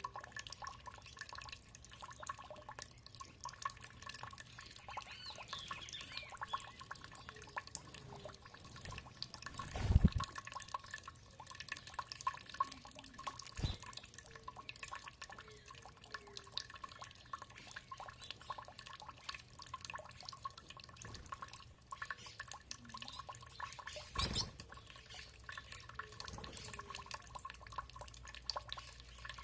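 Water dripping and trickling steadily, with scattered bird calls. Two louder thuds come about 10 seconds and 24 seconds in.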